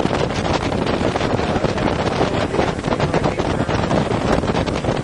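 Steady wind buffeting the microphone on the upper deck of a motor yacht under way, over the rush of the boat's running engines and water.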